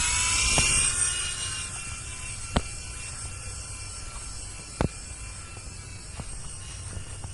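Small electric rotor motors of an IR remote-control toy helicopter running with a steady high whine, loudest at first and easing a little after about a second and a half. Two sharp clicks come about two and a half and five seconds in.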